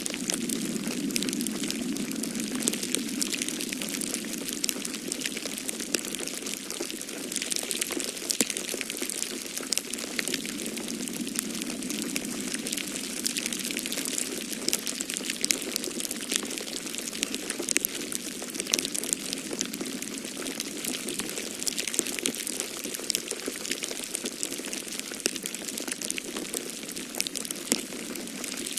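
Wood fire crackling in a fireplace with many quick, irregular pops, over a steady rush of snowstorm wind.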